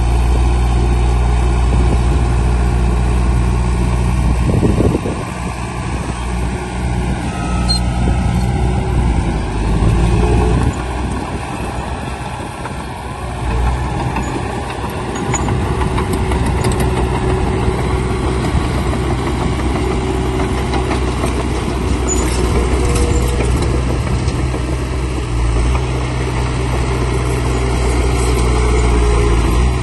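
Heavy diesel earthmoving machinery running, a steady low engine note that shifts a few times, dropping about five seconds in and changing again near ten and twenty-five seconds.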